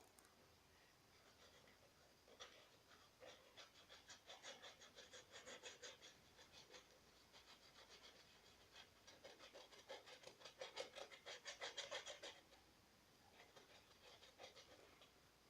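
Fine paintbrush working gouache onto a plastic soda bottle: faint, rapid scratchy strokes, about five a second, in two runs, the second louder, stopping near the end.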